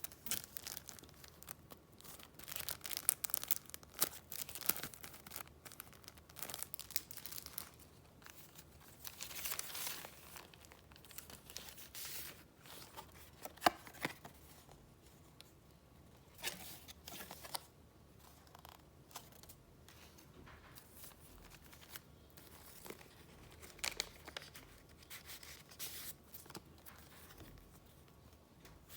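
Paper and wrapping being handled, with irregular rustling, crinkling and tearing sounds and short pauses between them. There is one sharp click near the middle.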